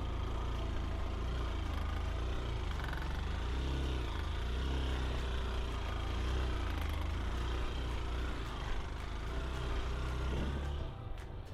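Vehicle engine running while driving, a steady low rumble that drops briefly near the end.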